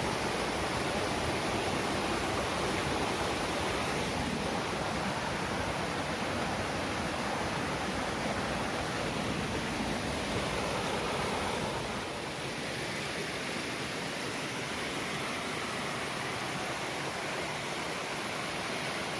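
Steady rushing noise that eases slightly about twelve seconds in.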